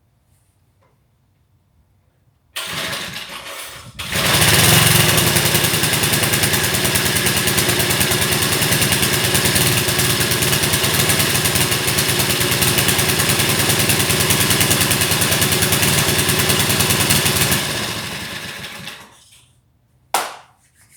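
Old 2 hp, 109 cc four-stroke engine starting cold on its first run after maintenance. A short burst comes about two and a half seconds in, then it catches about four seconds in and runs steadily at an even speed. Near the end it slows and stops, followed by a brief knock.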